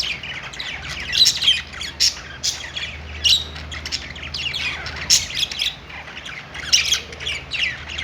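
A group of budgerigars chirping and chattering, many short, overlapping, downward-sliding calls from several birds at once, over a faint steady low hum.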